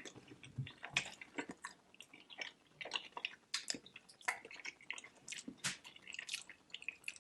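Close-miked wet chewing and lip smacking while eating saucy barbecue ribs: many short, irregular wet clicks.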